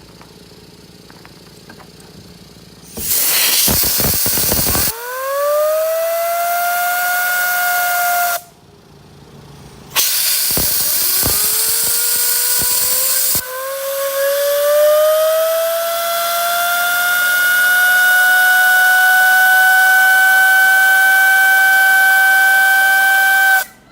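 A removed Mercedes Sprinter T1N turbocharger spun by a rush of air. The air hisses, and the wheel whistles as it spins up, the pitch rising and then holding. It happens twice: a short run, then a longer one of about ten seconds that cuts off suddenly.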